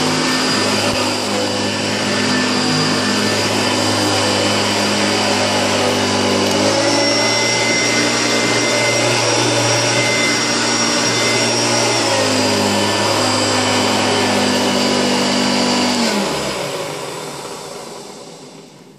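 Hoover Turbopower Boost U2718 upright vacuum cleaner running. Its motor hums steadily, then rises in pitch about seven seconds in as it goes onto the boost setting. It drops back to normal speed about five seconds later. Near the end it is switched off and winds down to a stop.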